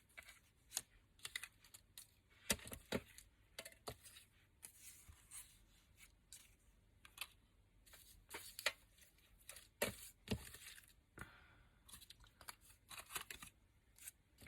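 Paper and card being handled on a desk: faint, irregular rustles, light taps and clicks as sheets are picked up, shuffled and put down.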